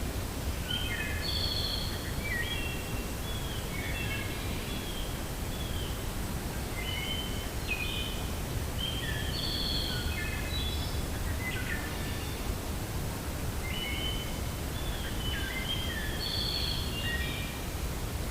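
Steady low wind rumble in a forest, with songbirds singing bouts of short whistled notes at varied pitches, coming back about every six to seven seconds.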